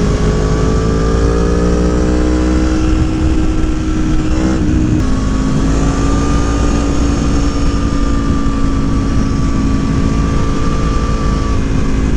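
Tuned Aprilia Tuono motorcycle engine pulling under way: its revs climb steadily, a quick upshift about four and a half seconds in drops the pitch, then it holds a fairly steady drone, with wind rushing over the microphone.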